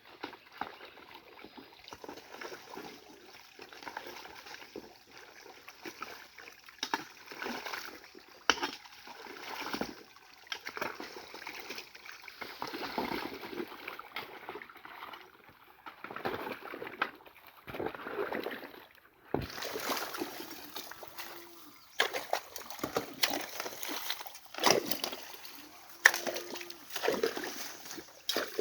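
Water splashing and sloshing in irregular surges, with sharp knocks, as a shallow stream is cleared of mud and debris by hand.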